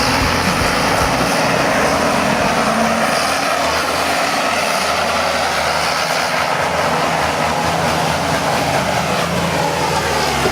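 A motor vehicle running steadily, a constant engine and road noise with no sudden sounds.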